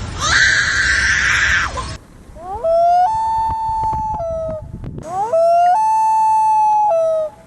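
Common loon wailing twice; each wail swoops up, steps up to a long held note, then drops a step at the end. A harsh screech from another bird ends about two seconds in.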